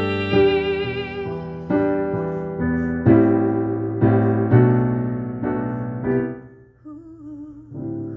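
Piano playing slow ballad chords, a new chord struck every half second to second, dying away about six seconds in. A soft wavering held note with vibrato comes in near the end.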